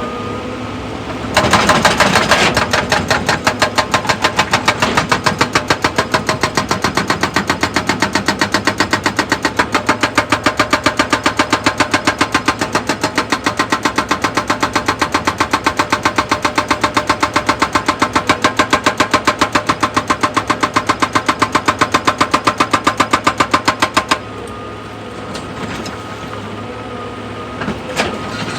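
Excavator-mounted hydraulic rock breaker hammering in a fast, even train of blows that starts about a second in and stops shortly before the end, over the excavator's running diesel engine.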